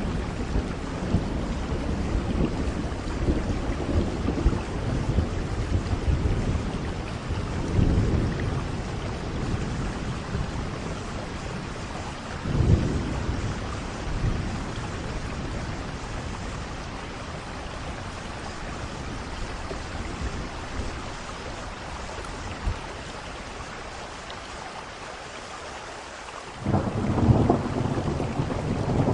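Steady heavy rain with rolling thunder: low rumbles swell and fade, with a sharper thunderclap about twelve seconds in. The thunder dies down to a lull, then a loud new rumble breaks in near the end.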